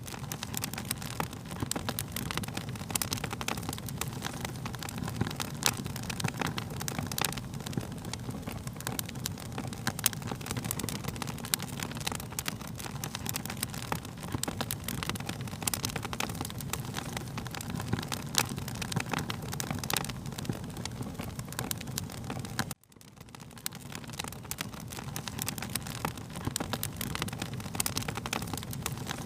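Wood fire crackling, with many sharp pops over a steady low rumble. The sound cuts out abruptly about three quarters of the way through, then fades back in.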